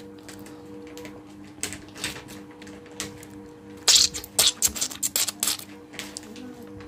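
A person spitting: a sharp hissing spit about four seconds in, followed by a quick run of short, wet clicking mouth sounds.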